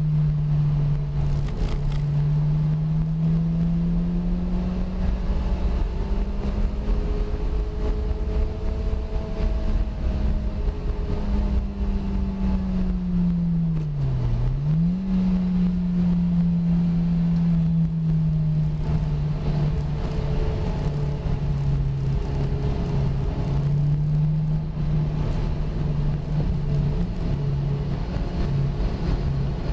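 Lotus Elise 111R's Toyota 2ZZ-GE 1.8-litre four-cylinder engine running at steady part throttle, heard from inside the cabin. Its pitch rises gently over the first few seconds, holds, dips sharply and picks straight back up about halfway through, then stays steady, over a constant low road and wind rumble.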